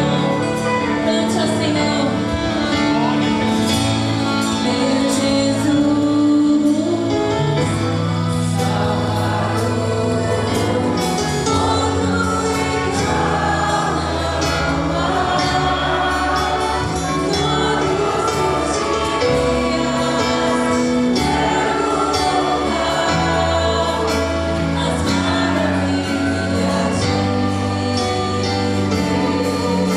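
Congregational worship music: a choir or congregation singing a gospel hymn over instrumental accompaniment with bass and a steady beat.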